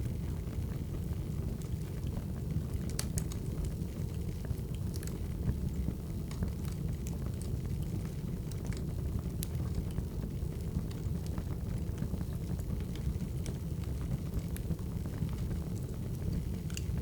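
Burning wood fire: a steady low rumble with scattered sharp crackles and pops.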